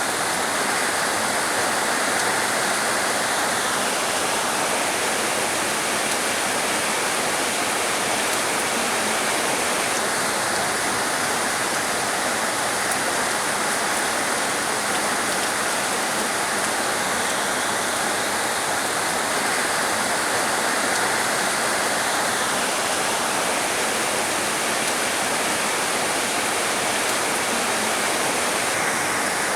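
Heavy rain falling in a steady hiss, with a higher layer that swells and fades every few seconds.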